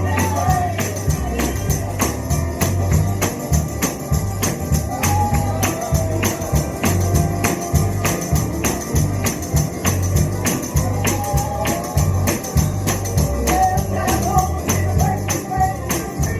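Live gospel music with singing over a pulsing bass line, and a tambourine keeping a steady, even beat.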